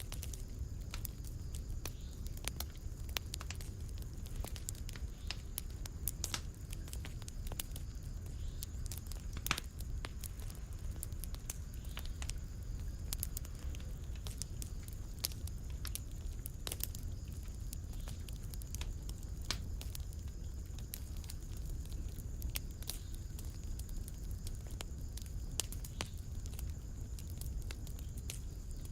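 Wood fire burning in a fireplace: a steady low rumble under many irregular crackles and pops, one louder pop about nine and a half seconds in.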